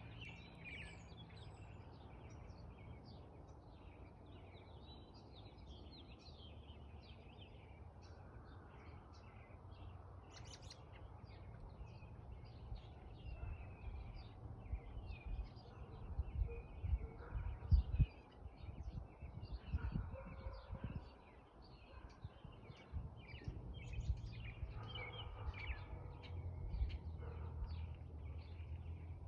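A chorus of small birds chirping and twittering with many short, quick calls, over a low rumble that swells in gusts about halfway through.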